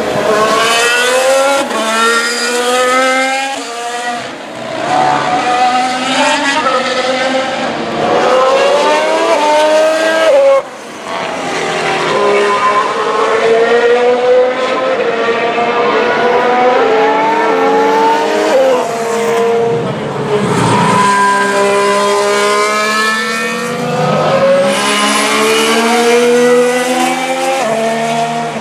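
2017 Formula 1 cars' 1.6-litre turbocharged V6 engines accelerating past one after another, the pitch climbing and dropping back sharply at each upshift.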